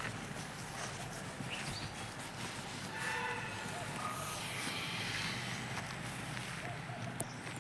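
Outdoor background noise with faint, short chirps, and a brief distant pitched call about three seconds in.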